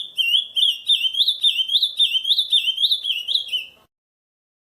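Ultramarine grosbeak (azulão) singing one phrase of the camaquã song type: a quick run of rising-and-falling whistled notes, about four to five a second, that stops abruptly near the end.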